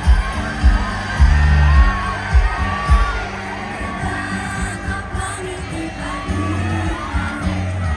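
Live pop music through a loud PA: a pop song with a heavy bass line and singing, and a crowd at a concert.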